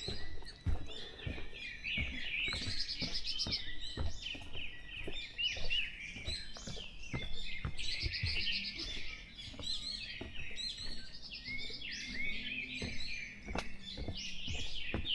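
A dense dawn chorus of many birds chirping and trilling at once in a forest. About halfway through, a faint low drone of distant motorbikes comes in underneath.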